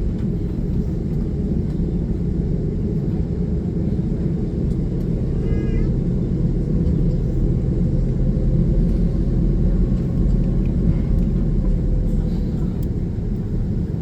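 Steady low rumble of an Airbus A330-300's jet engines and airframe heard inside the passenger cabin, swelling slightly around the middle.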